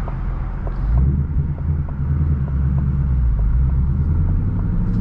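2021 Ford Mustang Mach 1's V8 heard from inside the cabin, a low rumble from its exhaust in track mode. It gets louder about a second in, then holds steady under way.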